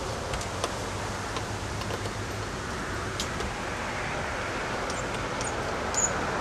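Steady low rumble and hiss of a SEPTA Silverliner electric railcar moving slowly along the track, with a low hum that fades after a couple of seconds and a few faint clicks.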